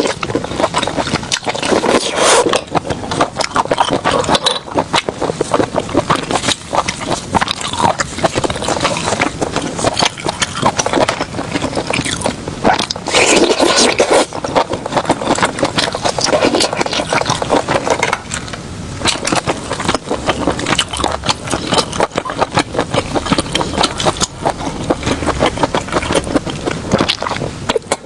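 Close-up seafood eating: shells cracking and scraping, with dense crackling and crunching.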